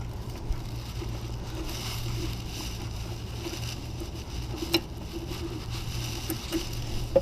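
Light clinks and taps of metal hand tools being handled, with one sharper click a little past two-thirds through, over a steady low hum.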